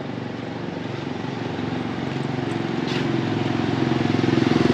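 A motorbike engine running, growing steadily louder as it comes closer and loudest near the end.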